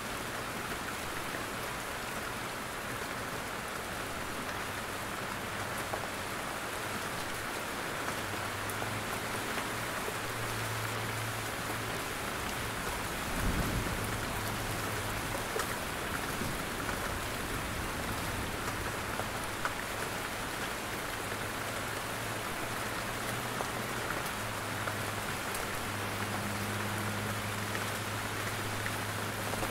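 Steady rain falling in a forest, with drops falling from the trees. One short low thump comes about halfway through.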